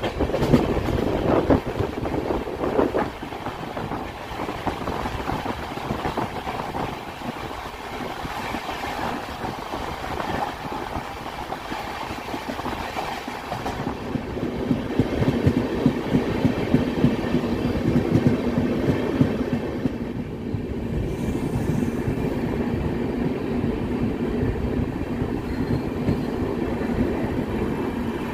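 Indian Railways passenger train running on the line, heard from an open coach door: the wheels rumble and clatter over the rails. The running noise grows louder about halfway through, and a steady low hum sets in from then on.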